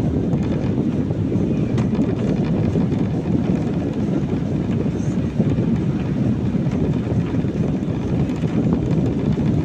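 Steady low rumble of a car's road and engine noise, heard from inside the cabin while driving on a wet road in the rain.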